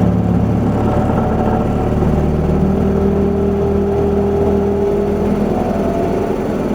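Isuzu Erga city bus's four-cylinder diesel engine running steadily under way, heard from inside the bus, with a steady whine from the drivetrain in the middle of the stretch.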